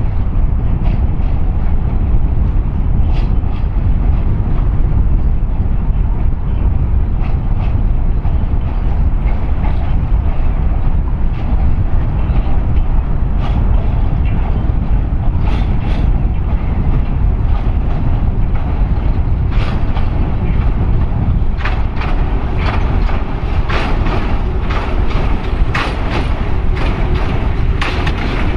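Hythe Pier Railway's small electric train approaching along the pier, its wheels clicking over the rail joints more and more often as it draws near. A heavy, steady rumble of wind on the microphone runs underneath.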